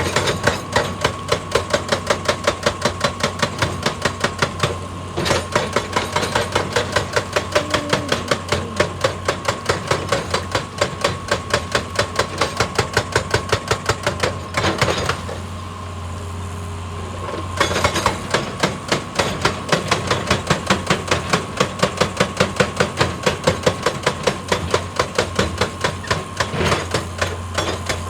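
Excavator-mounted hydraulic rock breaker hammering into rock in a fast, even run of blows, several a second, pausing twice briefly, over the excavator's steadily running engine.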